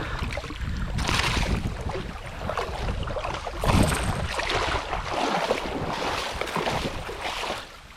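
Creek water splashing and sloshing in irregular surges, the loudest about four seconds in, with wind rumbling on the microphone.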